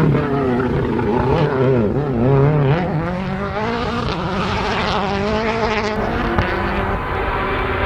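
Turbocharged World Rally Car engine revving hard, its pitch rising and dropping again and again through throttle lifts and gear changes, then holding steadier near the end, with one short pop about six and a half seconds in.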